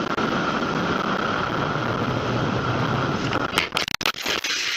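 A car driving: steady road and engine noise with a constant whine, broken near the end by a few sharp clicks and brief dropouts.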